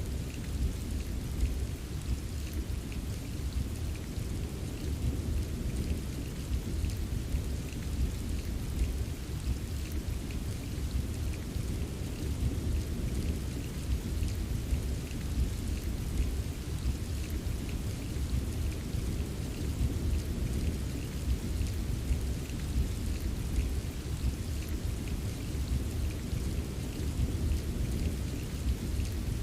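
Steady rain ambience: a dense patter of raindrops over a deep, constant low rumble, with no single clap or change.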